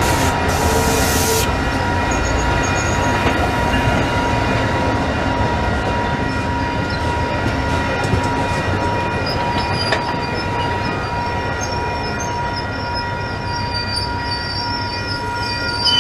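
A train rolling past with a steady rumble of wheels on rail, slowly fading. There is a brief hiss about half a second in, and faint high wheel squeal in the second half.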